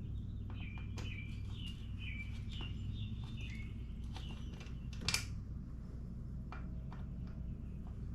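A bird chirping a quick run of short notes over a steady low hum, with scattered clicks and one sharper click about five seconds in from work on the motorcycle's lower fairing screws.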